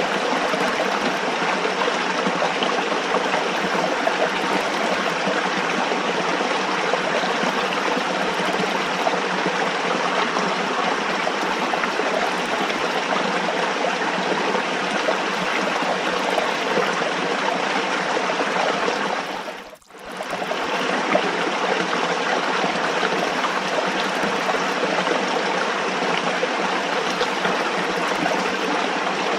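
Running water flowing steadily with an even rushing, trickling sound. About two-thirds of the way through it dips almost to silence for half a second, then comes straight back.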